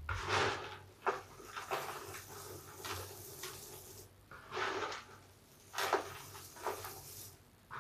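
Large soapy bath sponge, lathered with soap scraps, being squeezed and kneaded by hand: irregular wet squishes about once a second, a few of them starting with a sharp click.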